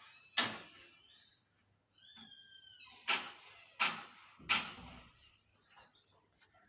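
Small birds chirping: several sharp, loud chirps, a warbled call about two seconds in, and a quick run of short notes near the end.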